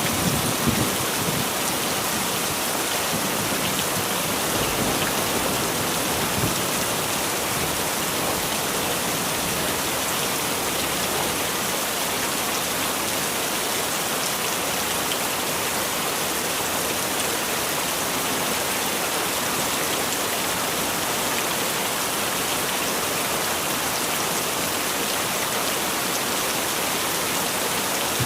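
Heavy rain falling steadily in a dense, even hiss, with low rumbles of thunder in the first few seconds.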